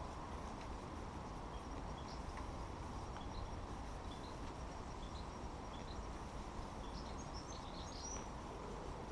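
Small birds giving faint, short chirps over a steady background hiss and rumble, the chirps scattered through and bunching together about seven to eight seconds in.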